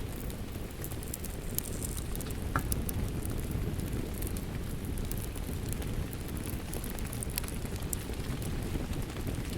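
Steady rain with a deep, even rumble, mixed with the irregular sharp crackles and pops of a wood fire burning in a fireplace.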